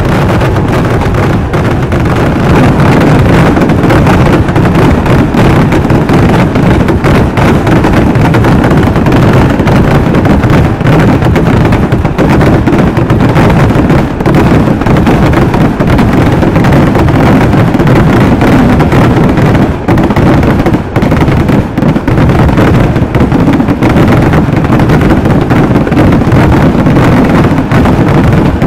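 Kerala temple-festival fireworks (vedikettu): ground-level firecrackers going off in a dense, very loud barrage, the bangs so close together that they merge into one continuous rumble. In the later part the separate bangs stand out more.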